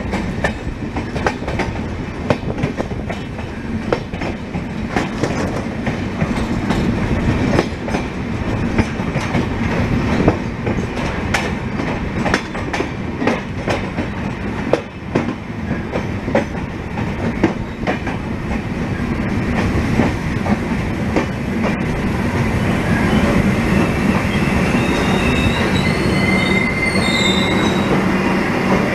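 Passenger express train running on the rails, with many irregular clicks and knocks from the wheels over the track. High, wavering wheel squeal sets in about two-thirds of the way through.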